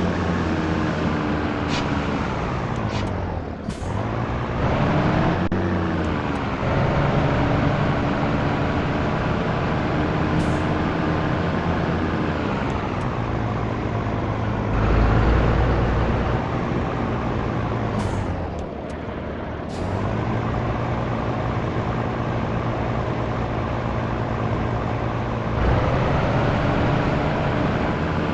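Scania T113 truck's diesel engine running under way. The engine note drops and climbs back up twice, about four seconds in and again near nineteen seconds, as gears are changed. Short sharp air hisses come around the shifts.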